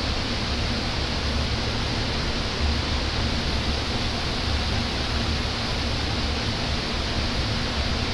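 Steady rushing noise with a low hum underneath, unchanging throughout, like a fan or shop machine running.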